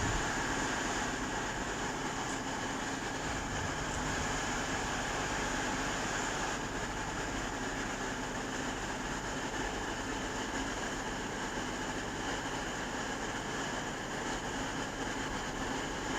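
A train at a railway station, heard as a steady, even mechanical sound with a few constant tones, holding the same loudness throughout.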